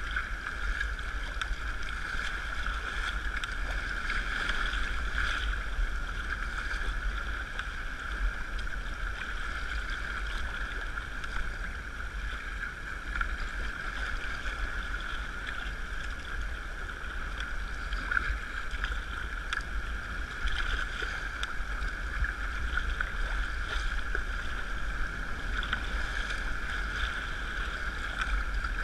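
Steady noise of a sea kayak underway: water washing along the hull, with a low rumble of wind on the microphone.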